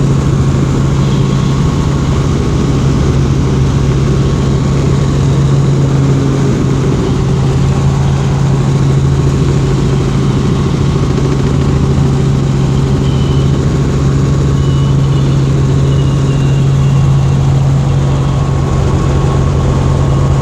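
Helicopter running steadily: a loud, unbroken drone with a constant low hum.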